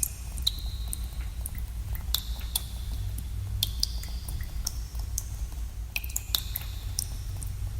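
Water drops dripping in a cave, falling irregularly several times a second. Each drop is a short plink with a brief ringing tone, and the tones land at different pitches. Under them runs a steady low rumble.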